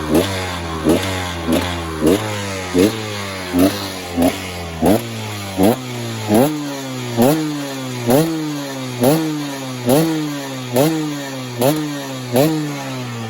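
KTM 250 EXC Six Days' single-cylinder two-stroke engine being blipped over and over: about seventeen quick stabs of throttle, each snapping up in pitch and falling back, a little under one a second and slowing slightly.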